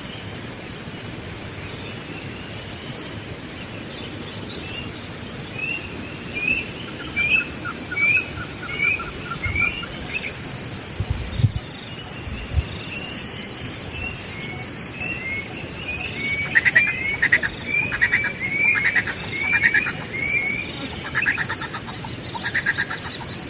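Wild birds calling. First comes a series of short rising whistled notes, about two a second, then a denser run of chirps near the end, over a steady high background hum. Two low thuds come about halfway through.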